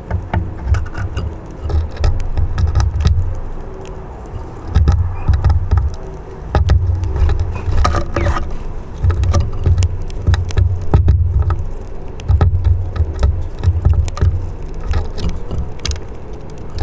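Wind buffeting the microphone in gusts, a low rumble that comes and goes every second or two, over many sharp little taps and clicks.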